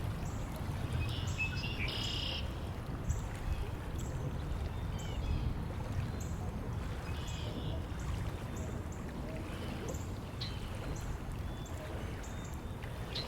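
Outdoor wind noise with birds singing: a few short bird calls now and then, and a thin high chirp repeating steadily about every two-thirds of a second.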